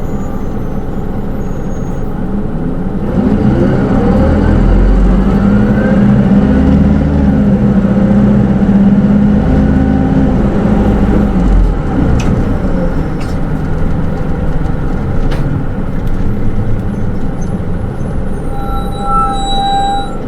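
Cabin sound of a Hino Rainbow II city bus (SDG-KR290J1, automatic transmission) under way. Its diesel engine speeds up in a rising whine a few seconds in, then runs steadily under the road noise. A short electronic chime sounds near the end.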